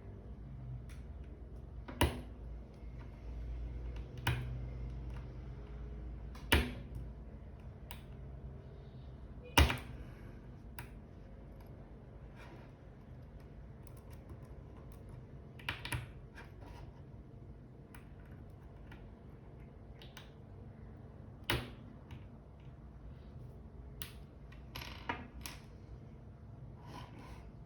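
Irregular sharp clicks and taps, a few seconds apart and some in quick pairs, from a G-Shock watch and small tools being handled while a replacement band is fitted.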